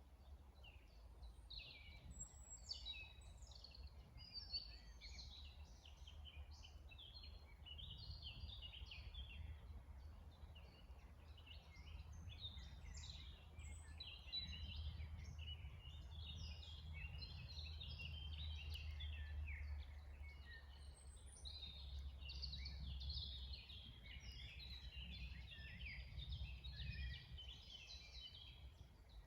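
Songbirds singing in a dense chorus of short, high chirps and trills, faint, over a low rumble that swells in the middle.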